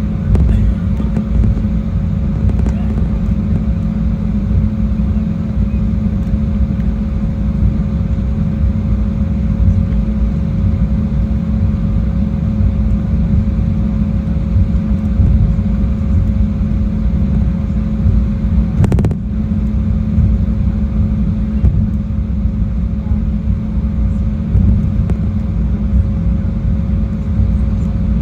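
Jet airliner cabin noise: a steady, loud low rumble from the engines and airflow with a thin steady hum, heard from inside the cabin. A single brief click near the two-thirds point.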